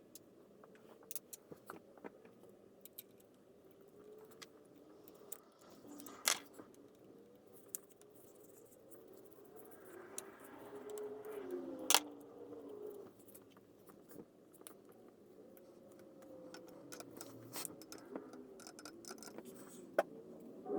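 Small metal parts and hand tools being handled while the fan is put back together: scattered light clicks and scrapes, a few sharper clinks among them, over a faint wavering tone.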